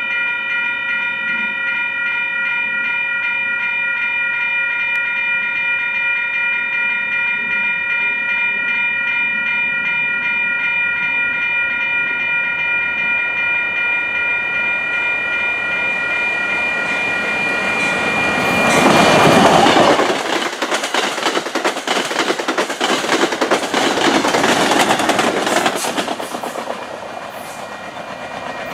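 Passenger train passing at speed: a long, steady multi-note warning tone sounds for about nineteen seconds, then the train rushes by with loud, rapid wheel clatter over the rail joints, fading near the end.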